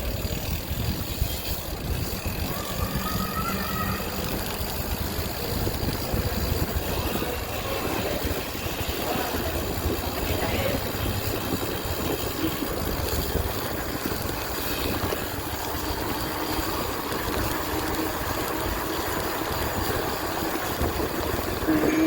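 Wind rushing over the microphone and tyre noise while a bicycle is ridden: a steady, heavy rumble.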